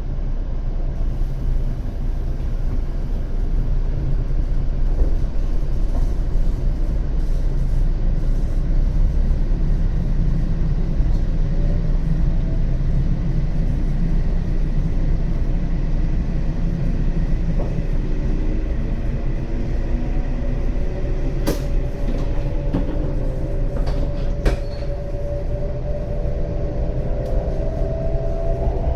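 W7 series Shinkansen train running: a steady heavy rumble, with a faint whine that slowly rises in pitch from a little past halfway, and a few sharp clicks.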